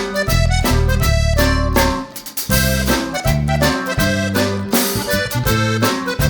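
Upbeat background music led by an accordion-like reed instrument, playing short bouncy notes over a repeating bass line.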